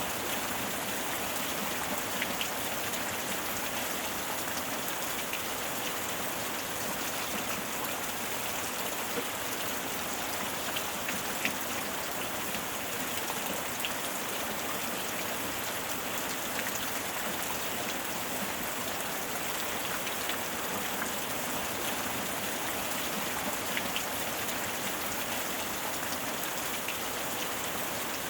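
Steady heavy rain falling on a surface, an even hiss with scattered sharper drop ticks.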